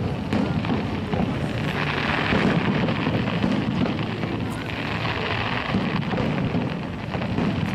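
Fireworks display heard across the water: a dense, steady wash of crackling and shell bursts with no single bang standing out.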